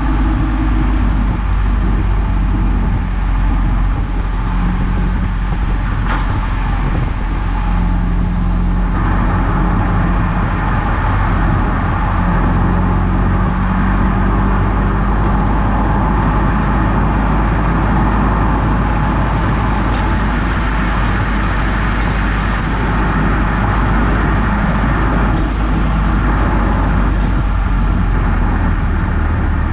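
Eunos Roadster on the move: steady road and tyre noise over a deep drone, the hiss rising for a long stretch in the middle and easing near the end, with a few faint clicks.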